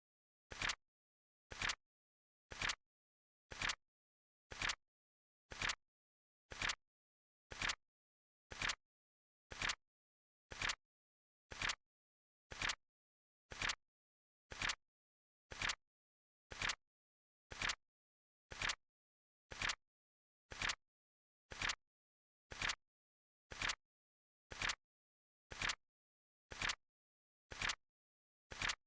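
Flip clock timer sound effect: a short sharp click about once a second, evenly spaced, with silence between the clicks.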